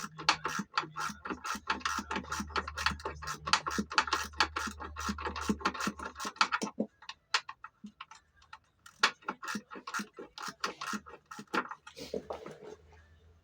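Rapid, sharp mechanical clicking over a low steady hum; the hum stops about seven seconds in and the clicks become sparser.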